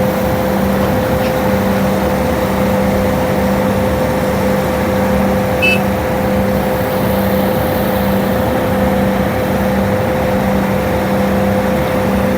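A concrete truck's diesel engine runs steadily with a continuous drone and a constant hum.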